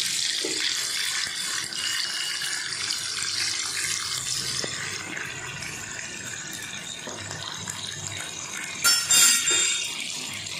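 Paneer cubes shallow-frying in hot oil in a nonstick pan: a steady sizzling hiss, with a short, louder burst about nine seconds in.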